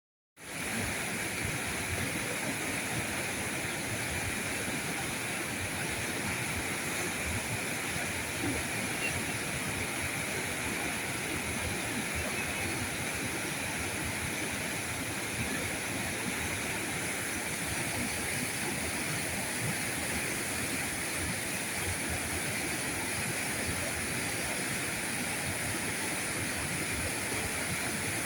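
River current flowing: a steady rush of water that comes in right at the start and holds without a break.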